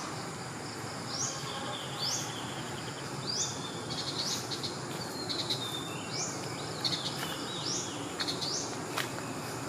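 A bird gives short calls that sweep upward in pitch, repeated about once a second, over a steady high insect buzz and outdoor background noise.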